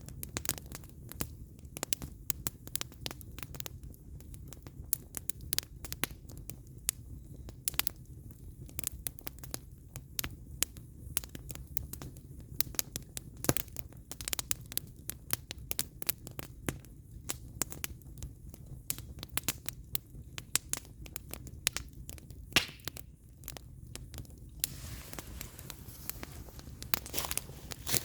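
Firewood burning in an open fire: irregular sharp crackles and pops over a steady low rumble of the flames. Near the end a soft hiss joins in.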